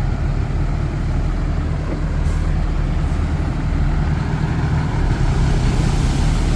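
Heavy diesel engine of earthmoving machinery, a dump truck or bulldozer, running steadily with a deep low hum. There is a brief high hiss a little over two seconds in.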